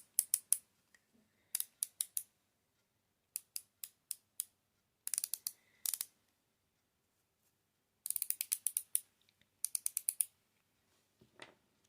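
Cuticle oil pen being clicked over and over to push the oil out to its brush tip: sharp, quick ratchet clicks in about seven short runs with pauses between them.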